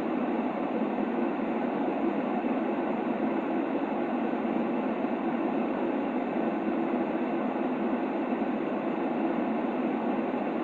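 Steady white-noise track for soothing a baby: a constant, even shushing hiss, muffled and weighted toward the low-mid range with no high hiss, and no change or pauses.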